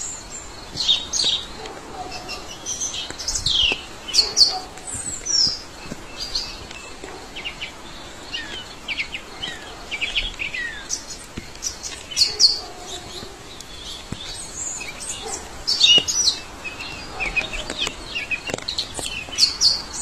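Several songbirds singing and calling at once: quick high chirps, trills and short downward-sliding whistles, overlapping and coming in clusters, over a faint steady hiss of forest ambience.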